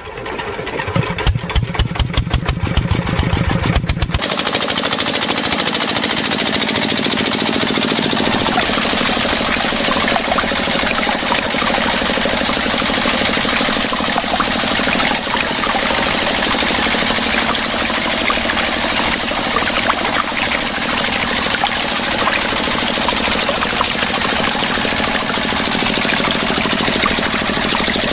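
Engine starting with a slow, even chugging of about five strokes a second. About four seconds in it changes suddenly to a dense, steady running noise.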